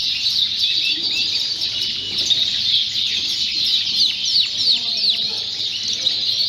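Many Fife canaries singing and calling at once: a dense chorus of chirps and quick falling whistles, with faint voices murmuring underneath.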